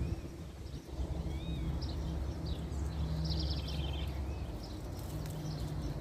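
Faint, scattered chirps and one short trill from double-collared seedeaters (coleiros), over a steady low background rumble.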